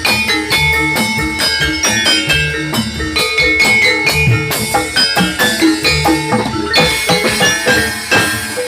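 Javanese gamelan music for Jathilan dance played over a sound system: struck metallophones ringing in a fast, dense rhythm over drums.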